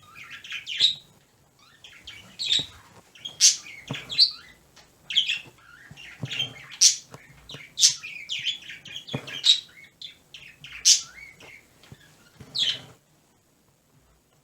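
Pet birds chirping indoors: a steady run of quick, high calls and sweeping whistles that stops near the end.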